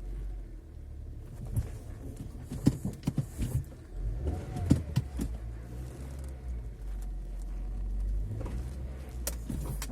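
Hyundai Elantra rolling slowly with a low steady rumble, and scattered knocks and short creaks from the rear as the car rocks, a cluster of them about four to five seconds in. The owner takes this metallic creak for the trunk hinges.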